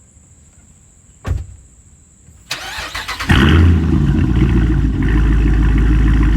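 A thump about a second in, then the starter cranks briefly and the 2021 Dodge Durango R/T's straight-piped 5.7-litre Hemi V8 fires, flares up and settles into a loud, steady idle.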